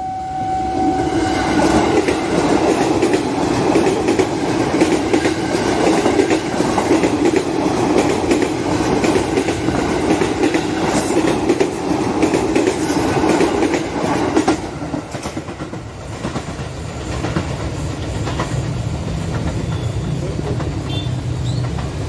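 KRL Commuter Line ex-JR 205 series electric train passing close by over a level crossing, its wheels running over the rails. The sound drops about fourteen seconds in, leaving a quieter, lower rumble as the train moves away.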